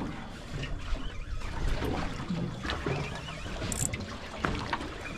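Water trickling and splashing, with scattered small knocks.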